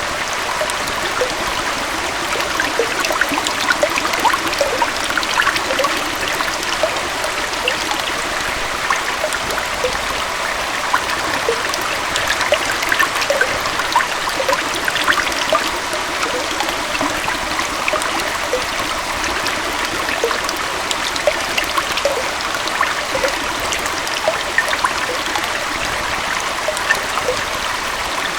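A small waterfall and stream flowing steadily, an even splashing rush with fine bubbling and gurgling through it.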